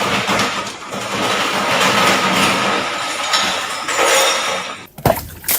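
Washing machine running loudly with a steady mechanical rumble and some clinking. About five seconds in the noise breaks off suddenly and a single sharp knock follows.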